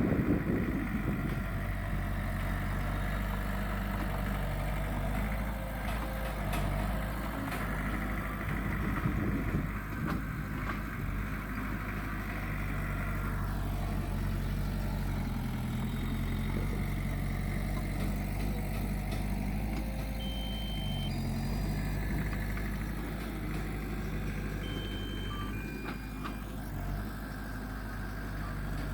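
Heavy diesel engine running steadily at a low idle. A couple of short high beeps sound past the middle.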